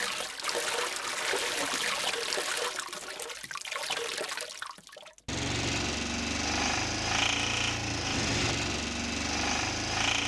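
Water splashing and trickling. About five seconds in it cuts off abruptly and a steady low hum takes over.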